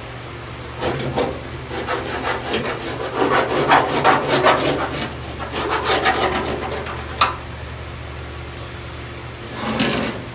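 Irregular scraping and rubbing of sheet metal for a floor-pan patch panel, over a steady low hum. A sharp click comes about seven seconds in, and a short scrape near the end.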